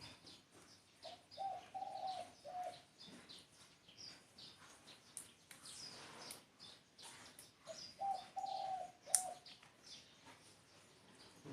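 Spotted dove cooing: two phrases of several coos each, about six seconds apart, with small birds chirping high in the background.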